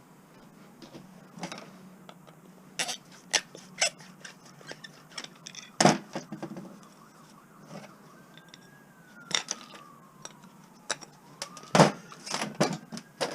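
Pieces of scrap metal clinking and clanking as they are handled and set down, a string of sharp knocks with two louder clanks about six seconds in and near the end. A faint tone slowly falls and rises in the background during the second half.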